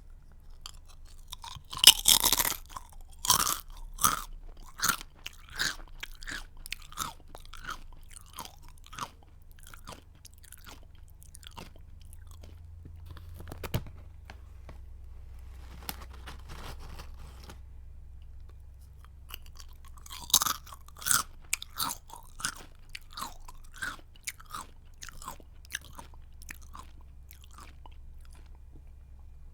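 Someone biting into a crunchy snack and chewing it close to the microphone. There are two loud bites, about two seconds in and again about twenty seconds in. Each is followed by crisp crunching chews, about one and a half a second, that fade as the mouthful breaks down.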